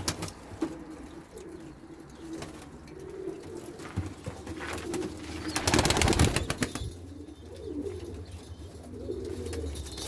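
Domestic pigeons cooing, a low wavering call that goes on through most of the stretch. About six seconds in comes a loud, brief rustle or flutter, with a few scattered clicks.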